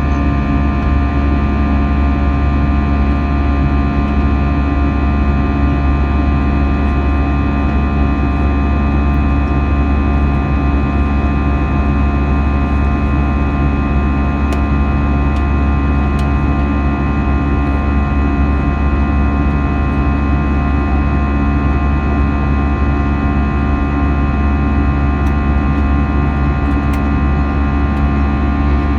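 Steady cabin drone of an Airbus A320 in flight after takeoff: a deep rumble of engine and airflow noise with several steady whining tones layered over it.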